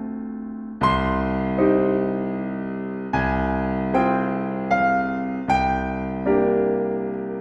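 Slow, gentle solo piano music: notes and chords struck about once a second, each left ringing and fading before the next.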